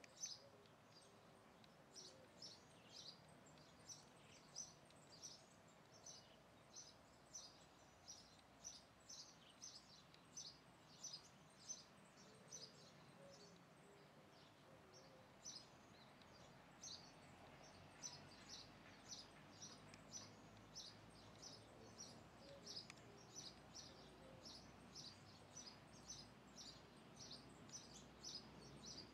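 Faint, quick bird chirps: a long run of short, high chirps, roughly two a second, thinning briefly about halfway through.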